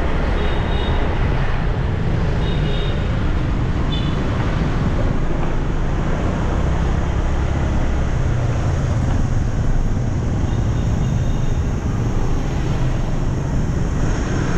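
Steady wind rush and road noise from riding a motorbike through city traffic, with a few short high-pitched beeps in the first four seconds.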